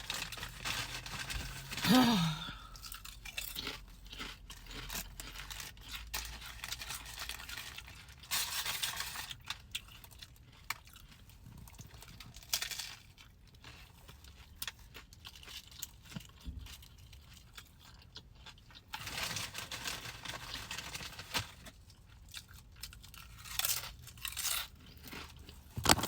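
A person eating close to the microphone: irregular crunching, chewing and clicking mouth sounds, with a few longer crackly stretches.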